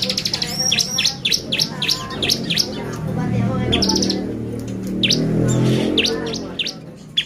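Bar-winged prinia (ciblek) singing hard. Fast buzzy trills alternate with rapid runs of sharp, high, downward-sweeping chirps, the lively 'gacor' song used as a lure to provoke other ciblek into singing. A low hum rises and fades behind the song in the middle.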